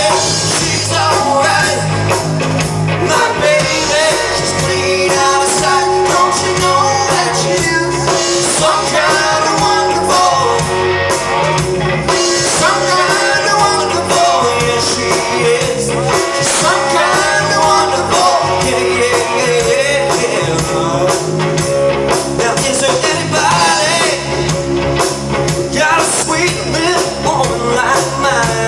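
Rock-and-roll music with a singing voice over guitar and band accompaniment.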